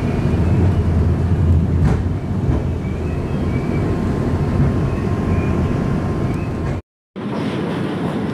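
Moving passenger train heard from inside the carriage: a steady low rumble of the train running on the rails. It breaks off for a moment about seven seconds in at a cut, then carries on.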